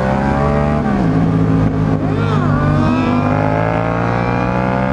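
Motorcycle engine running under way, its pitch climbing steadily as it picks up speed, with a short drop in pitch about a second in.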